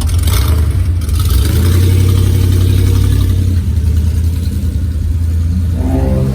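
Car engines running in slow traffic with a steady low rumble. Near the end an engine briefly revs, rising in pitch.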